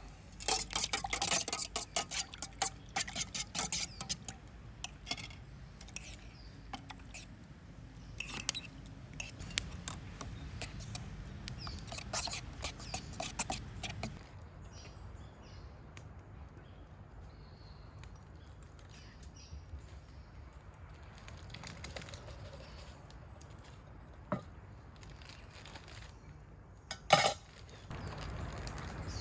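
Utensil clinking and scraping in a bowl while pancake batter is mixed: a fast run of taps for the first few seconds, then scattered knocks, a quieter stretch, and one sharp knock near the end.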